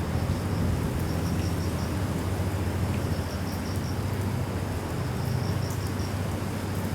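Steady wind and rain noise over a low rumble, with an insect chirping in short trains of high pulses every couple of seconds.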